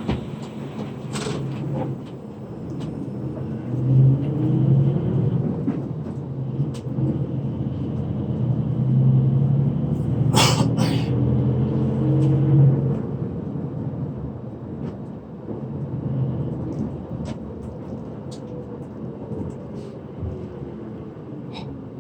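Bus engine and drivetrain heard from inside the cabin, pulling away with the engine note climbing as it accelerates, over steady road rumble. A couple of sharp clicks sound about ten seconds in.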